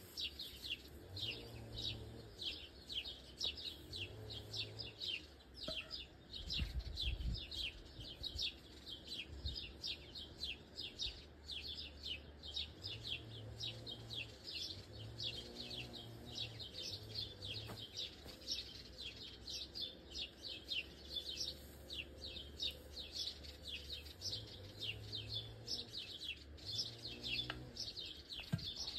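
Songbirds chirping without pause in a rapid, even run of short high chirps, about three or four a second. A low rumble comes and goes underneath, strongest about seven seconds in.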